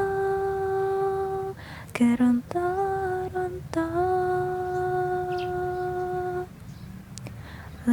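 A solo voice singing a slow Javanese song without accompaniment, holding three long, drawn-out notes, the last one about three seconds long, with a steady low hum underneath.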